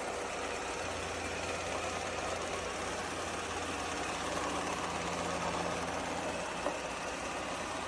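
Eureka E20 Plus robot vacuum running, a steady motor and suction whir with a faint hum and one light click near the end.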